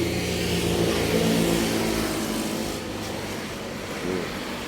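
A motor vehicle engine running, its pitch shifting up and down in steps, over a steady high hiss.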